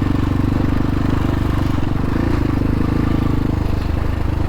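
X-Pro Templar X dirt bike engine running steadily under the rider, a continuous low engine note with rapid firing pulses.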